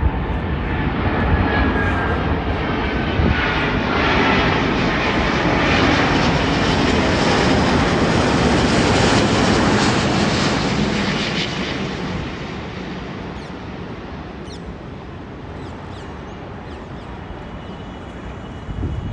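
Jet noise of an Emirates Airbus A350-900 on its landing approach, from its Rolls-Royce Trent XWB engines: a rushing roar that builds, peaks about ten seconds in, then fades as the airliner passes. A thin whine slides down in pitch in the first few seconds.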